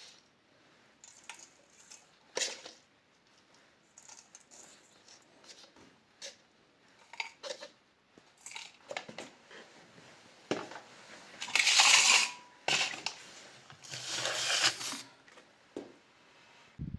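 Kitchen handling sounds: scattered light clicks and knocks, with two longer rustling, scraping noises about twelve and fourteen seconds in.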